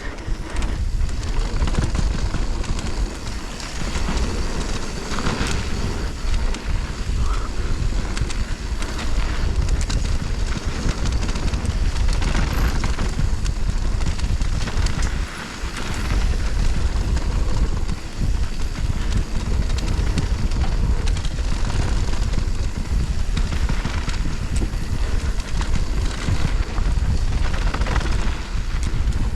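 Wind rushing over the microphone of a mountain bike on a downhill run, with tyres on dirt and short knocks and rattles as the bike goes over bumps.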